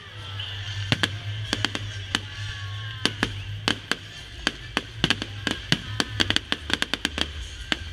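Fireworks display: a run of sharp bangs and crackles at irregular spacing, coming thicker from about five seconds in, over music with a steady bass line.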